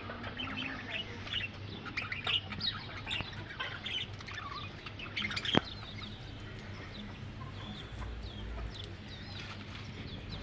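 Birds chirping and calling, many short calls overlapping, busiest in the first half and thinning out later. A single sharp click a little past halfway.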